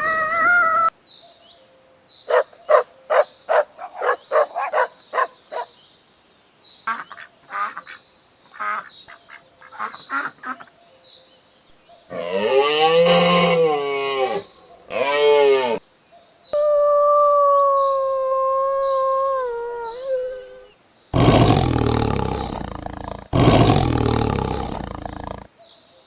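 A succession of different animal calls: first a quick run of short repeated calls, then a few scattered short ones, then a loud call that bends up and down, a long falling call, and two loud, rough, low-reaching calls near the end.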